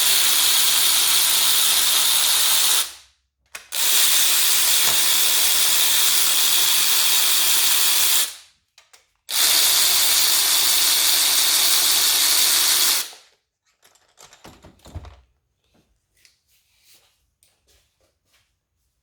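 Power tool running in three long bursts of about three to four seconds each, followed by a few light clicks and clinks of tools and metal parts.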